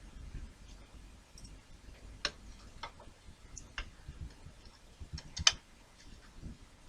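Scattered small clicks and taps of small kit parts and screws being handled while a piece is fitted and readied for screwing in; the loudest click comes about five and a half seconds in.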